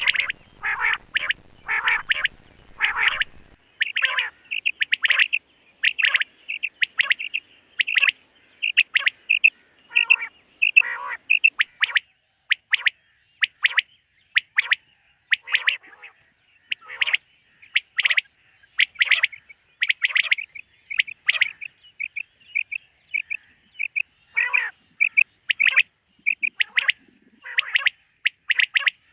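Common quail calling: short, sharp notes repeated over and over, several a second, some in quick runs of three.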